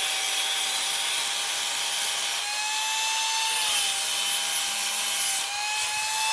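Electric angle grinder running on metal: a steady motor whine under a loud, hissy grinding noise. The pitch rises twice as the load on the disc eases, then settles back.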